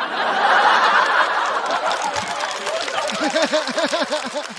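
Audience laughing after a stand-up punchline, loudest in the first second or two and then fading. In the second half one voice stands out, laughing in quick repeated ha-ha pulses.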